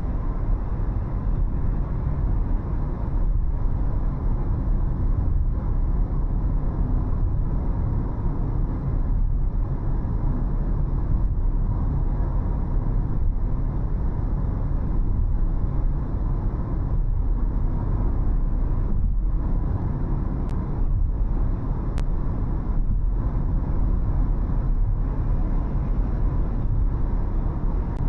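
A car driving along a city road: a steady low rumble of engine and tyre noise.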